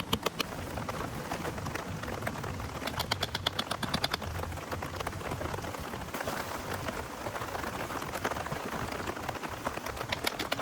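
Steady rain noise, with a quick run of sharp taps about three seconds in.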